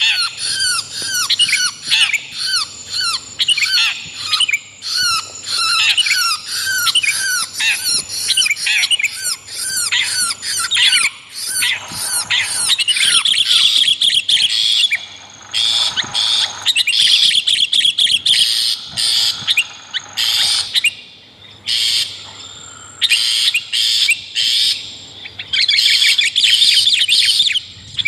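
Long-tailed shrike and sooty-headed bulbul calls mixed into a bird-lure track. For about the first half there are rapid runs of short notes, each falling in pitch. After that come harsher, scratchy chattering calls in bursts.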